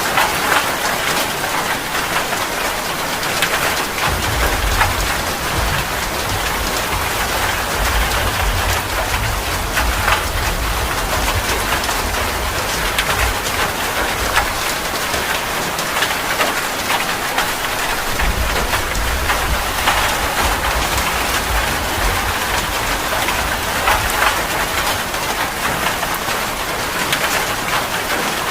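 Heavy rain falling steadily, a dense hiss of drops on surfaces with scattered individual drop ticks. A low rumble joins about four seconds in and runs under the rain for most of the rest, briefly dropping out in the middle.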